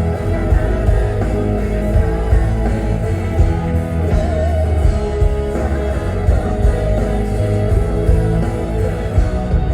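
Live rock band playing a song through a concert PA, loud and steady, with heavy bass and drums under sustained guitar and keyboard lines.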